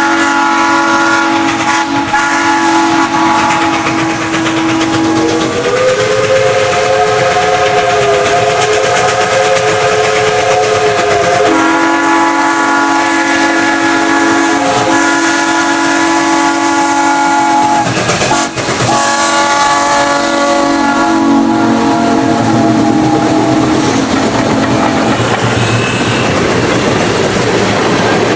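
A passing train's whistles blowing long, held chords: a lower chord, then a higher one about five seconds in, then the lower chord back with higher tones over it, briefly broken about two-thirds of the way through. The train runs loudly on the rails underneath.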